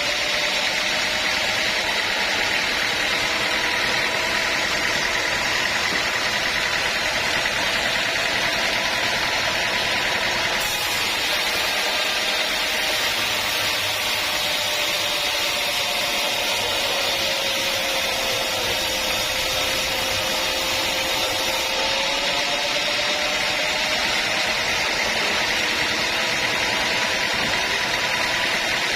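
Sawmill saw running through a teak log: a steady machine whine whose pitch sags a little about two-thirds of the way in, then recovers.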